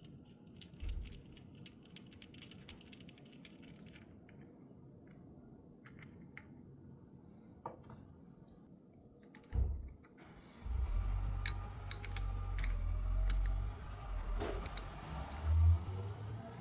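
Small metallic clinks and clicks, like tools and metal parts being handled, scattered through the first ten seconds; from about ten seconds in, a low rumble joins them with more clicks.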